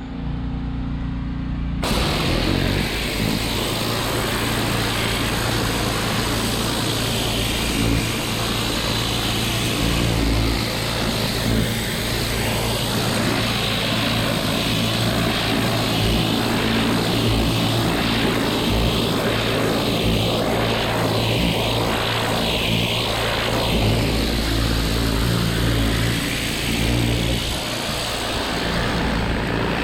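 Pressure washer's engine running steadily, with a high-pressure water jet spraying and hissing against a surface from about two seconds in.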